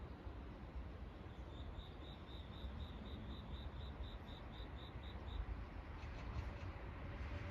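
A small creature's high chirp, repeated evenly about four times a second for some four seconds before stopping, over a faint low rumble.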